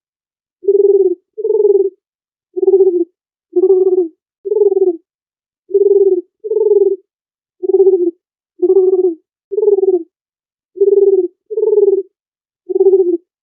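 Dove cooing: about a dozen short, low coos separated by silence, coming in alternating groups of two and three.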